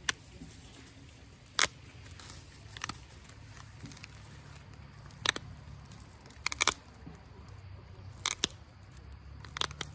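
Sharp clicks of pressure flakes snapping off Onondaga chert under an Ishi stick pressure flaker, about a click every second or two with some in quick pairs.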